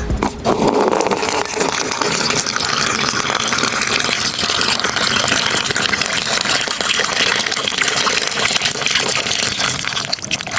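Water gushing and pouring in a steady stream, as when filling a miniature pool.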